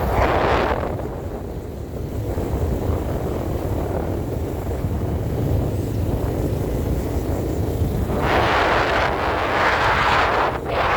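Wind buffeting the microphone: a steady low rumble with louder rushing gusts at the start and again from about eight seconds in.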